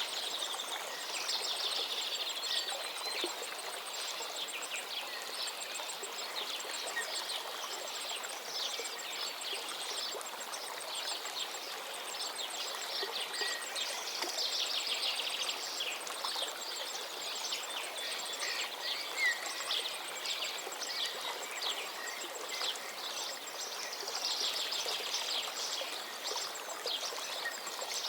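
Steady rushing of a flowing river with many songbirds singing and chirping over it, several overlapping at once.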